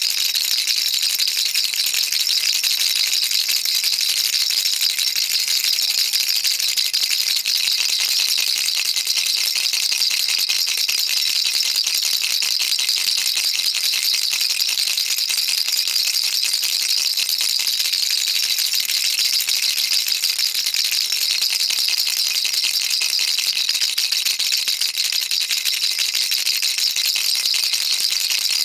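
Baby rattle shaken without a break, its beads making a dense, steady stream of fine high clicks.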